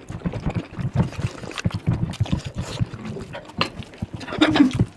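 Close-up eating sounds of curry and rice: wet chewing and lip-smacking, many quick irregular sounds. A short hum comes near the end.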